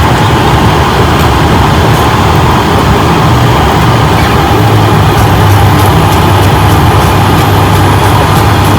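Steady jet airliner cockpit noise: engines running and air rushing, with a low drone underneath.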